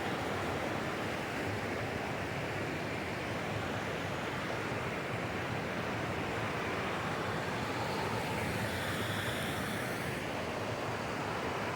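Steady rush of water from a small cascade on a mountain stream.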